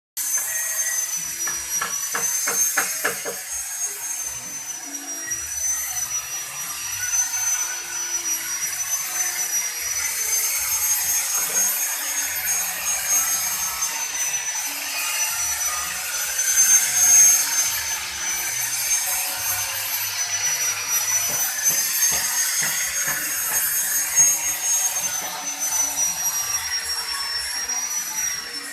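A high-speed electric power tool working wood, running continuously with a high-pitched whine that wavers slightly over a steady hiss. A quick run of ticks comes about two seconds in.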